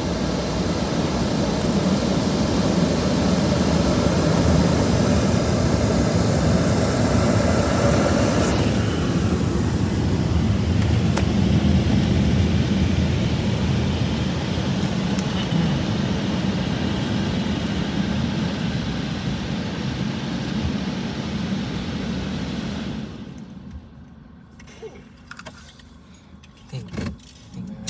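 Automatic car wash machinery running, heard from inside the car: a loud, steady rush with a deep rumble that cuts off sharply about 23 seconds in, followed by a few small clicks and knocks.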